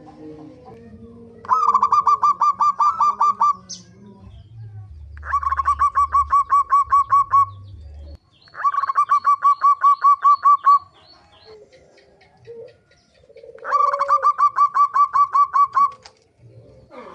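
Zebra dove (perkutut) giving its fast rattling pikat call: four bouts of rapid, evenly repeated notes, each about two seconds long, with short pauses between.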